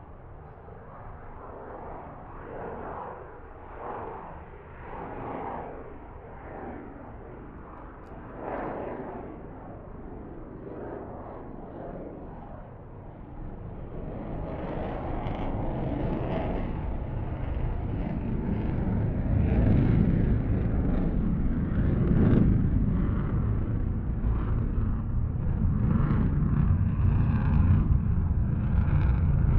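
Military jet engine roar heard from about 2 km away. It starts as a wavering, swelling rumble, then grows steadily louder from about halfway through into a heavy, deep rumble.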